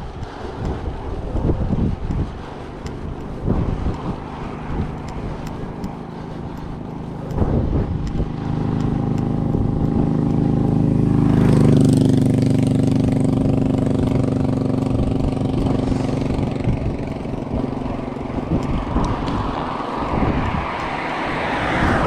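A motor vehicle passing close by, its engine hum building to loudest about halfway through and dropping in pitch as it goes past, then fading. This is heard over wind noise and the bike's tyre rumble, with tyre noise of another vehicle rising near the end.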